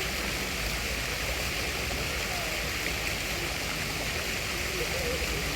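Steady rushing noise like running water, with faint voices in the background.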